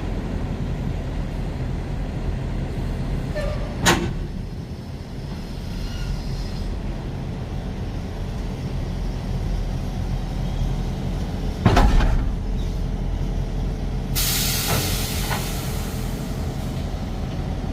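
Truck engine running steadily, heard from the cab, with two sharp knocks about four and twelve seconds in and a short burst of air hiss about fourteen seconds in.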